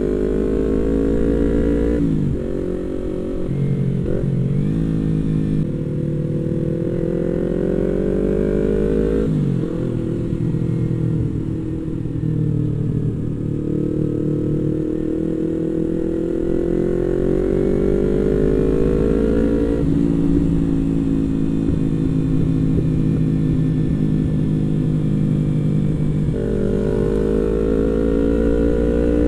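Yamaha MT-25's 250 cc parallel-twin engine pulling under acceleration on the road. The revs climb and then drop suddenly with each gear change, three times, then ease off and build again near the end.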